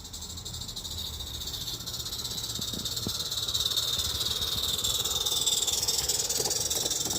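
A 16mm-scale live-steam model locomotive running, its exhaust steam making a steady high hiss that grows gradually louder as it draws nearer.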